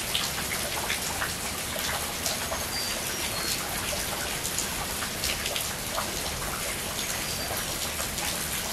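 Steady rain falling on trees, lawn and a wet patio, with many close drops striking. Short high chirps come every second or two over the rain.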